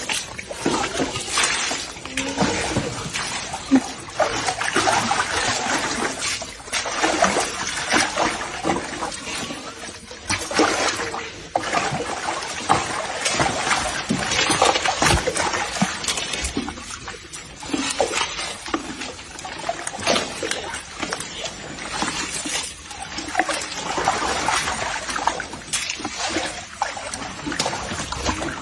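Water splashing and trickling unevenly, with irregular surges and a few sharp knocks.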